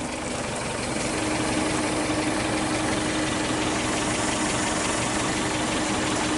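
An engine running steadily, growing louder over the first second or so, with a steady whine joining in about a second in.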